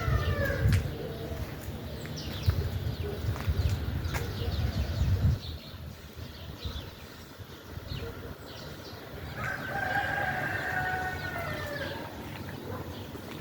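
A rooster crowing: the tail end of one crow right at the start, then a full crow of about two and a half seconds beginning about nine and a half seconds in, falling in pitch at the end. A low rumble runs through the first five seconds, with faint short chirps scattered throughout.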